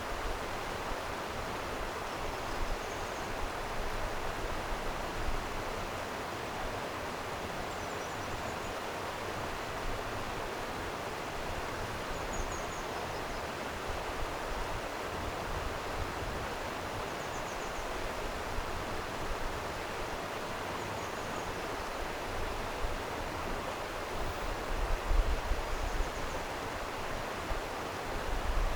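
Stream water flowing steadily, an even rushing, with faint high chirps every few seconds and low rumbles near the end.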